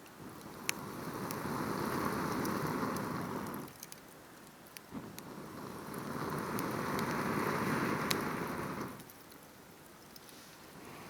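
Campfire crackling with scattered sharp pops. A rushing whoosh of air swells for about three seconds, stops, and swells again, twice in a row, and starts a third time near the end.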